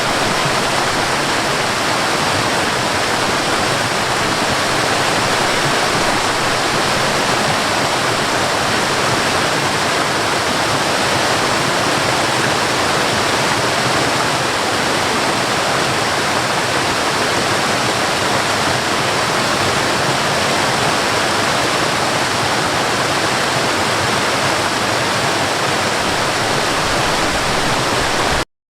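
Waterfall rushing in a steady, dense roar of falling water, cutting off suddenly near the end.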